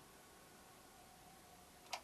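Near silence with a faint steady high tone, broken by one sharp click near the end.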